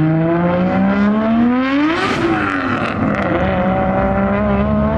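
Car engine revving: its pitch climbs for about two seconds, then drops back and holds at a steady, lower speed.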